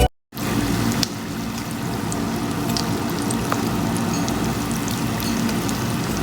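Hot oil sizzling steadily as food deep-fries, with scattered small crackles and pops.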